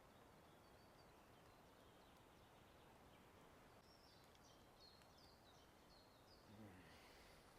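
Faint riverbank ambience: songbirds chirping over the steady hiss of a flowing river. A brief low sound falls in pitch near the end.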